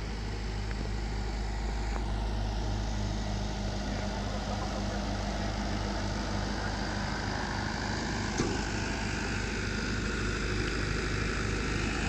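Train machinery running steadily: a low, even hum with a regular pulse in it. There is one sharp click about eight and a half seconds in.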